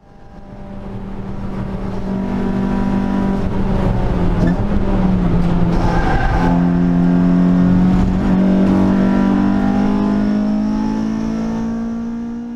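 Ford Focus ST170's four-cylinder engine on individual throttle bodies, heard from inside the car, under load on track. Around the middle, near the corner apex, the note breaks into a brief fart-like splutter, the sound of a valve held open by a fragment of the broken aluminium intake trumpet chewing the alloy. Then the engine note climbs steadily as the car accelerates out.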